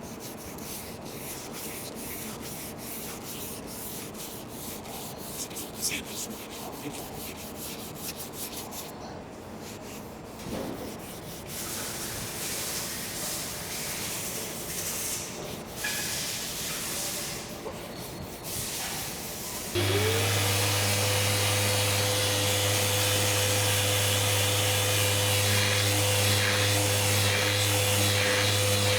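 Hand sanding of a car body panel: repeated rubbing strokes of abrasive on paint. About two-thirds of the way through a power sander starts, its whine rising as it spins up, then running at a steady, louder hum.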